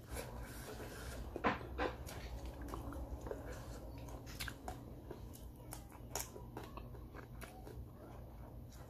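A person biting and chewing sauce-glazed fried chicken close to the microphone: a string of short wet mouth noises, loudest about one and a half seconds in, over a low steady hum.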